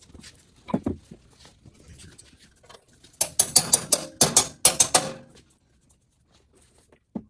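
Ratchet wrench clicking in two quick runs of about a second each, a few seconds in, after a dull thump about a second in.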